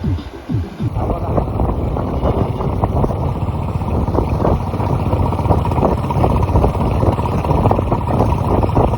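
Motorcycle ride heard from the bike, most likely a Royal Enfield Hunter 350 single-cylinder: steady engine rumble mixed with wind buffeting the microphone. It starts about a second in, after a brief bit of music.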